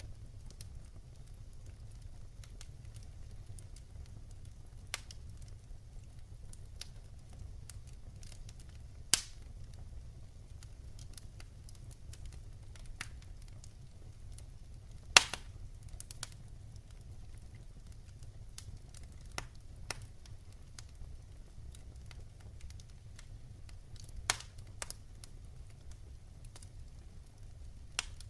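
Firewood burning in a wood fireplace: scattered crackles and pops over a low, steady rumble, with two sharper pops about nine and fifteen seconds in.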